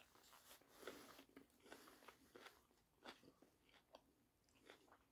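Faint chewing of a tortilla wrap with crunchy, lightly blanched potato pieces inside: soft, irregular crunches and mouth clicks.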